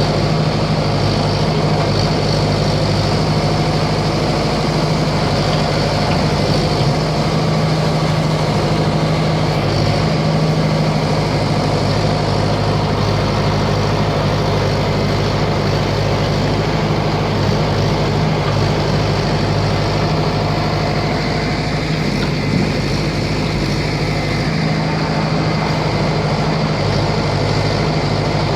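Diesel engine of an ACE 6565 four-wheel-drive tractor running steadily at an even speed.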